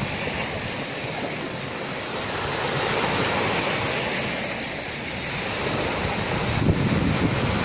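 Sea waves breaking and washing on the shore: a continuous rush of surf that swells about three seconds in and again near the end, with a deeper rumble as the later wave comes in.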